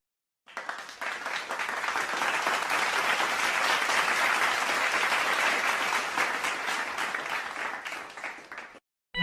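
Applause sound effect: a crowd clapping, starting about half a second in, swelling to a peak, then thinning out and stopping shortly before the end.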